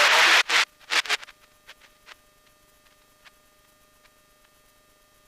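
Aircraft radio static hiss cutting off about half a second in as a transmission ends, followed by a few short clicks. After that, near silence with a faint steady electronic hum.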